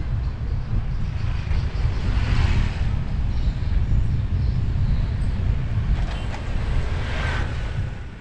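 Wind rumbling on an action camera's microphone while cycling along a road, with traffic noise. The noise swells about two seconds in and again near the end, as vehicles pass.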